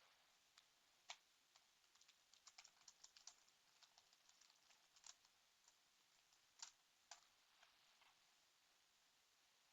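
Faint typing on a computer keyboard: a quick run of keystrokes, then a few scattered key presses that stop about eight seconds in.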